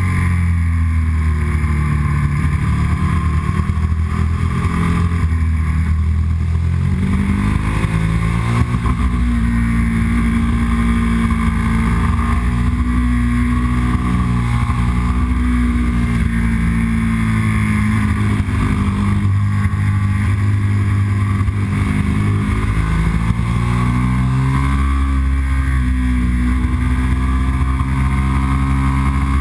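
Yamaha R1 sportbike's inline-four engine running hard under way, its note falling and climbing again several times as the throttle is rolled off and back on.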